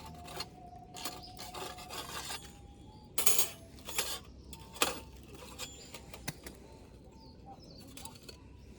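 Scattered light clinks, knocks and rustles of things being handled, loudest a few seconds in, with a few faint thin whistling tones in the background.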